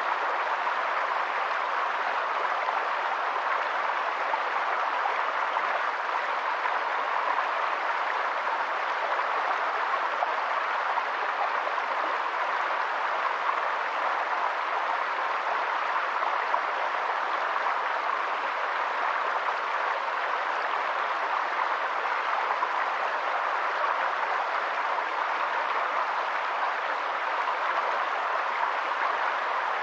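Steady, even rush of water with a faint crackle in it.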